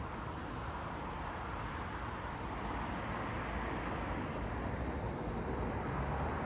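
Urban road traffic noise: a steady hiss of tyres and engines, swelling a little as a vehicle passes about five to six seconds in.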